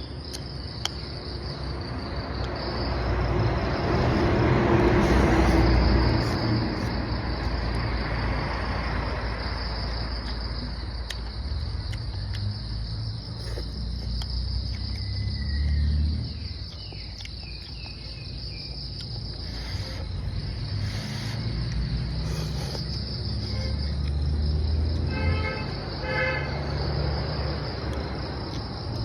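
Steady high chirring of insects, with low rumbles that swell and fade several times, like vehicles passing. A short pitched tone sounds twice near the end.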